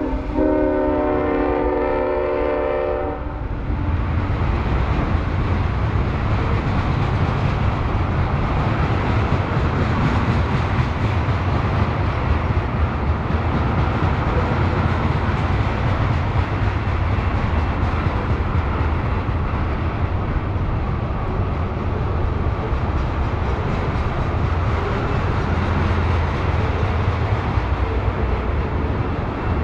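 Freight locomotive horn sounding a chord of several steady tones, cutting off suddenly about three seconds in. The long train of tank cars then rolls past close by with a steady heavy rail noise.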